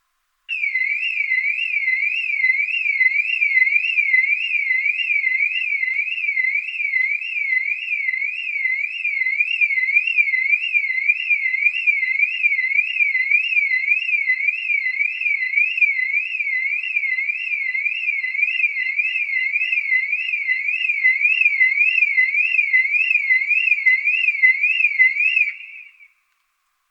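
Electronic alarm siren wailing in a fast, even up-and-down sweep of one high pitch, like a car or security alarm. It stops sharply near the end.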